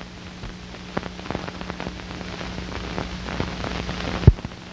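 Surface noise of an old optical film soundtrack: continuous crackle and scattered clicks over hiss and a steady low hum, with one loud pop about four seconds in.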